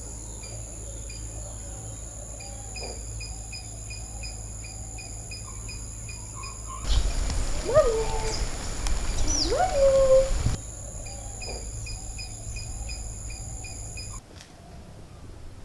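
Outdoor ambience of calling animals: a short chirp repeats about twice a second over a steady high insect-like drone. From about seven seconds in, a louder stretch of noise carries a few sliding calls that rise and then fall.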